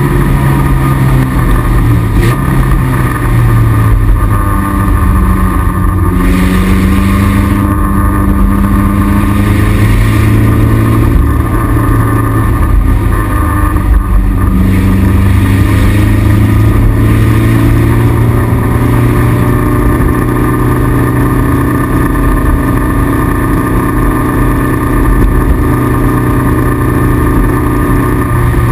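Toyota MR2 (AW11) race car's 4A-GE four-cylinder engine running hard on track, heard loud from inside the stripped cabin, its pitch dropping and climbing a few times as the car goes through shifts and corners.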